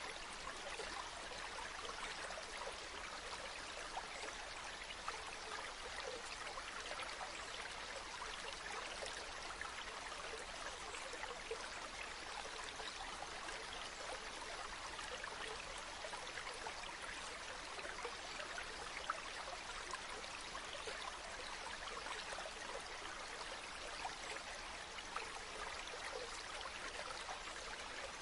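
Running water rushing and splashing steadily, a light even wash of fine splashes with little deep rumble beneath.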